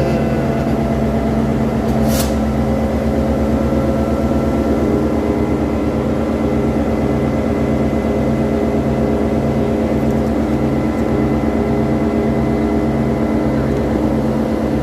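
Train running with a steady engine hum made of several held tones. A low pulse repeats about every two-thirds of a second, and there is one brief high-pitched sound about two seconds in.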